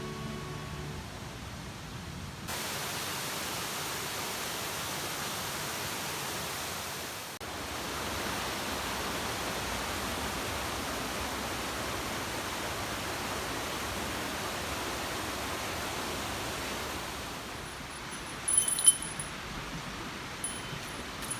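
Steady rushing of a flowing mountain stream, its water cut in and out at edits. Near the end it drops quieter and a few sharp clicks stand out.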